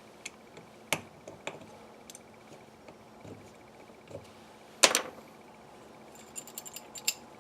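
Small metal carburetor parts and hand tools clicking and clinking as they are handled. There are scattered single clicks, the loudest about five seconds in, and a quick run of light ticks near the end.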